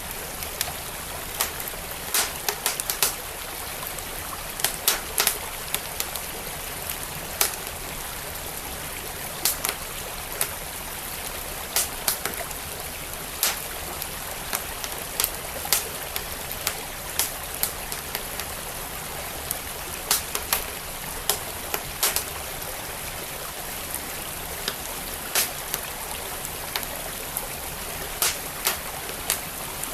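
Wood fire crackling, with sharp irregular pops scattered over the steady rush of a flowing stream.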